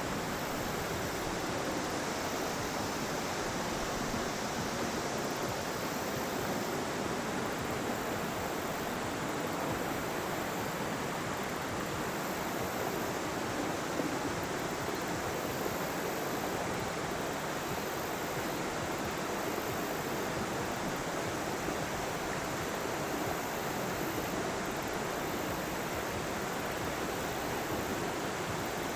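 The Yellow River's flowing water making a steady, even rush.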